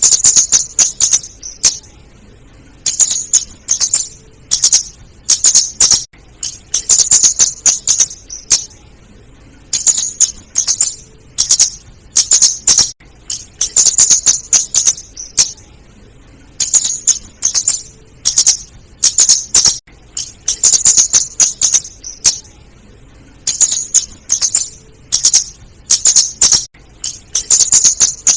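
Lure recording of a female flowerpecker (burung cabe / kemade) calling. It gives bouts of rapid, very high ticking notes about a second long, repeating every second or two.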